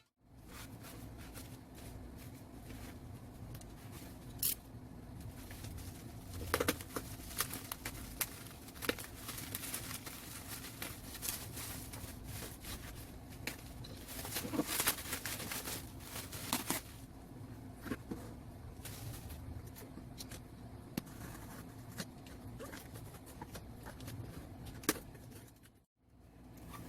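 Toy packaging being handled and opened by hand: irregular rustles, crinkles and small clicks and taps, over a faint steady hum.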